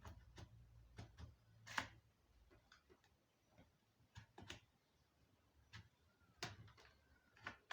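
Near silence with scattered faint clicks and taps from hands handling the laptop, at irregular intervals. A low hum stops about two seconds in.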